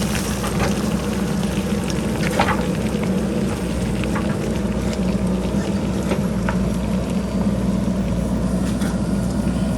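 Diesel engine of a JCB backhoe loader running steadily, with scattered sharp clicks and a crackling patter of rocks and pebbles clattering down the hillside.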